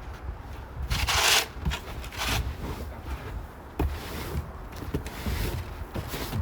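Wind rumbling on the microphone, with a few scraping, crunching noises, the loudest about a second in, and a sharp click near the middle.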